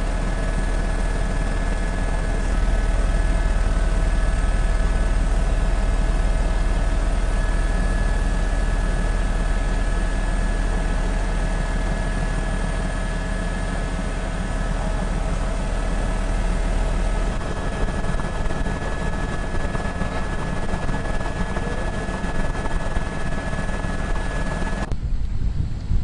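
Helicopter engine and rotor noise, running steadily with a constant whine. It cuts off abruptly about a second before the end, giving way to a low, gusty rumble.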